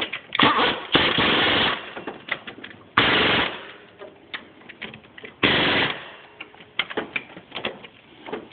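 Impact wrench hammering in the AC compressor's mounting bolts, cross-tightening them in several short bursts a couple of seconds apart, with small clicks between.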